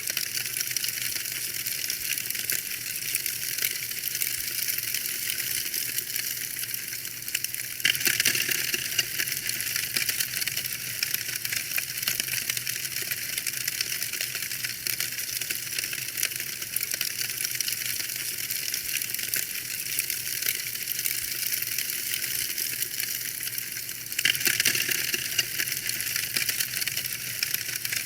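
Wood fire in a fireplace crackling: a steady stream of small snaps and pops over a soft hiss, briefly louder about eight seconds in and again a few seconds before the end.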